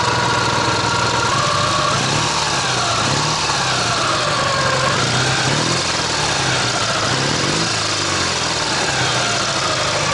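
Ural motorcycle's air-cooled flat-twin engine idling, its speed wavering up and down, with an irregular knock from the left cylinder. The rider hears it as knocking every other stroke and suspects a bent pushrod or valve clearances out of adjustment.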